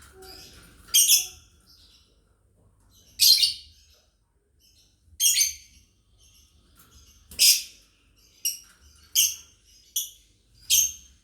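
Lovebirds giving short, sharp, high-pitched chirps, about eight calls spaced a second or two apart, some coming in quicker succession near the end.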